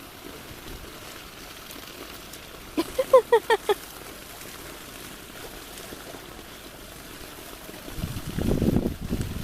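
Steady outdoor background of water and light wind. About three seconds in comes a quick run of five short pitched chirps within a second, and near the end a louder low rumble.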